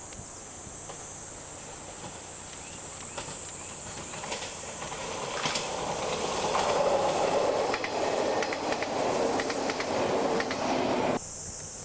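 A train on the line drawing near, getting louder over several seconds, its wheels clicking over the rail joints; the sound cuts off abruptly near the end. Insects trill steadily throughout.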